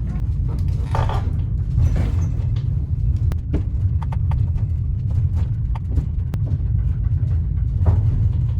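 A vehicle running, heard from inside: a steady low rumble with scattered clicks and knocks over it.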